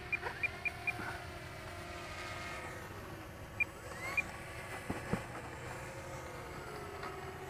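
A run of four short high beeps in quick succession, then two more single beeps a few seconds later, over faint sliding tones and a low steady hum.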